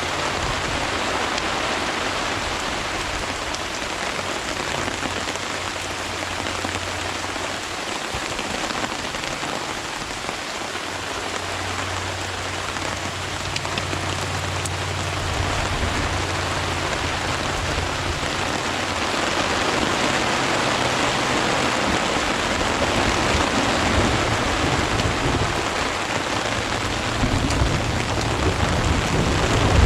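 Steady heavy rain falling during a thunderstorm, with low rolling rumbles of thunder, the strongest building near the end.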